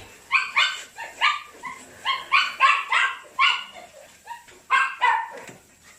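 A dog barking over and over, about a dozen short, high-pitched barks in quick succession that stop about half a second before the end.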